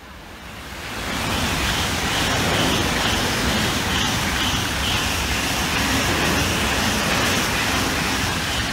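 High-speed electric train passing at speed: the rush of wheels on rail and displaced air builds over the first second, then holds as a steady loud noise with a deep rumble underneath.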